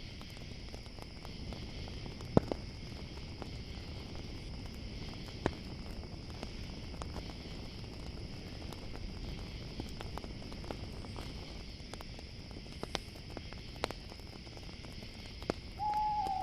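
Campfire crackling with scattered sharp pops over a steady chorus of chirping crickets. An owl starts hooting just before the end.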